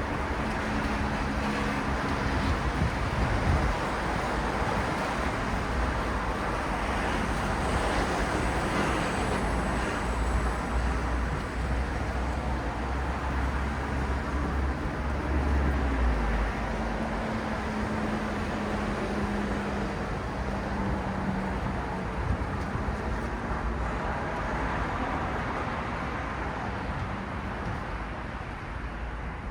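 City road traffic: a steady wash of tyre and engine noise from passing vehicles. A heavier engine's deep rumble swells about halfway through, and a lower engine hum comes and goes.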